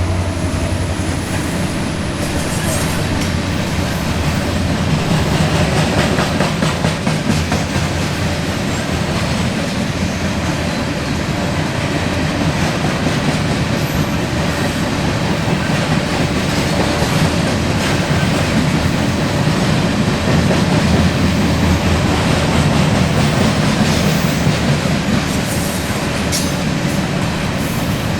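Grain train's freight cars rolling past, steel wheels clacking over the rail joints over a steady low rumble.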